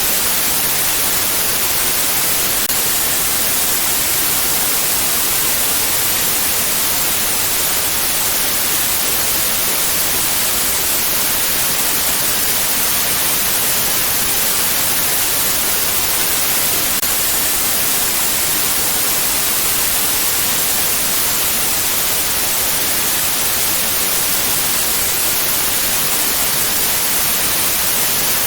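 Steady white noise: an unbroken hiss, strongest in the treble, holding one level throughout.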